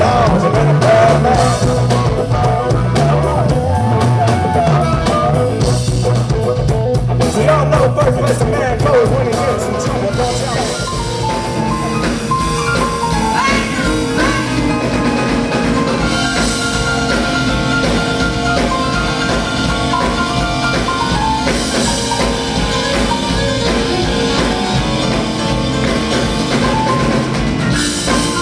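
Live blues band playing amplified, with drum kit. The lead notes bend and waver through the first ten seconds, then give way to steadier held notes.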